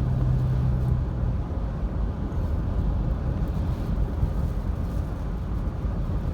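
Car cabin noise while driving: a steady engine and tyre rumble, with a low hum that drops away about a second in.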